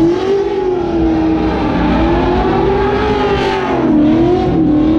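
LS V8 drift car's engine held at high revs while drifting, its pitch wavering and dipping briefly about four seconds in before climbing back.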